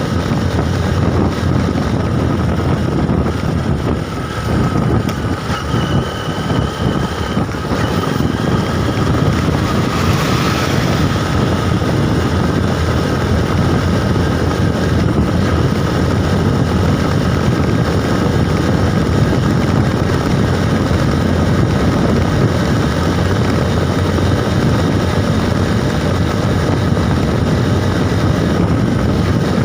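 Steady wind rush buffeting the microphone of a moving bike, with road and vehicle running noise beneath. A brief high tone sounds about six seconds in, and a short swell of noise comes around ten seconds in.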